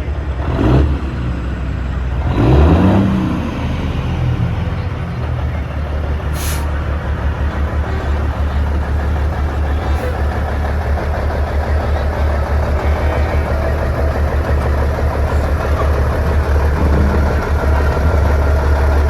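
Semi-truck diesel engines rumbling steadily as big rigs roll past; one passes close about two and a half seconds in, its engine note swelling and then falling away. A short hiss sounds about six and a half seconds in.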